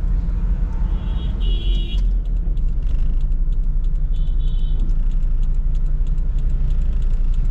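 Steady low rumble of a Toyota Sprinter AE110 on the move, with engine and road noise heard inside the cabin. Two brief high-pitched tones come in, about a second in and again about four seconds in.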